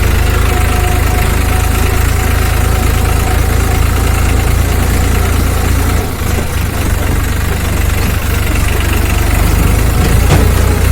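Diesel engine of heavy machinery running steadily and loudly close by, with a low rumble and a brief drop in level about six seconds in.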